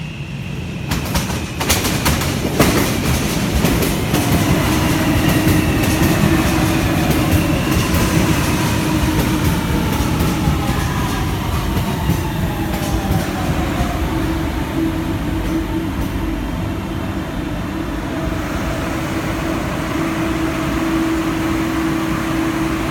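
Guangzhou Metro Line 1 train slowing down: a whine from the electric traction motors falls steadily in pitch as it decelerates. There are a few sharp clicks from the rails about two seconds in, and a steady low hum beneath.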